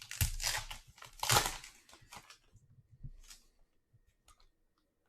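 A trading-card pack wrapper being torn open and crinkled, a few rustling tears in the first couple of seconds with the loudest about a second in, followed by a few faint clicks.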